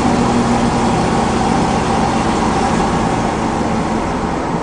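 The 7.4-litre 454 big-block V8 of a 1997 Chevy Cheyenne 3500 HD running steadily, heard from inside the cab. It runs without a miss.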